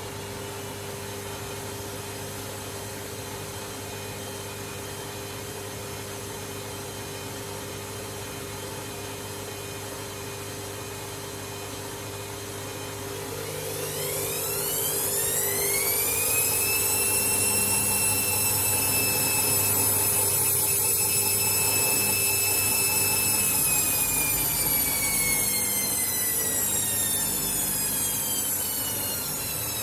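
Candy washing machine running, then its drum motor spinning up about halfway through with a rising whine. The whine holds steady for several seconds, then falls away as the drum slows after a short spin.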